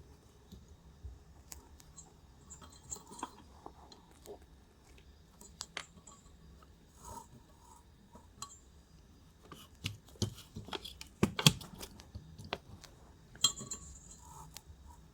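Scattered small metallic clicks, taps and scrapes of a 62 cc chainsaw being handled while its flywheel is turned by hand against a degree wheel to read the port timing. A cluster of louder knocks comes about two-thirds of the way through.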